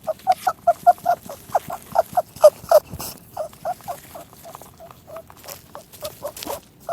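A small animal squeaking over and over in short, quick squeaks, about four or five a second at first, then softer and more scattered from about three seconds in.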